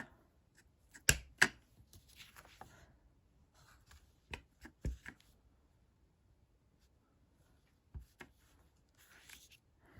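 Stamping tools and card stock being handled on a craft table: a few sharp taps, two together about a second in, two more around four to five seconds and one near eight, with soft paper rustling between, as a stamp is inked and pressed onto an envelope.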